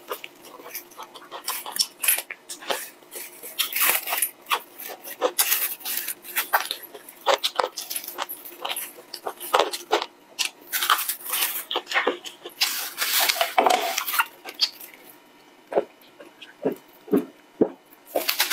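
Close-miked crunching and chewing of crispy bone-in fried chicken, dense with sharp crackles of the breaded crust. Near the end the crunching stops, followed by a few gulps of soda from a can.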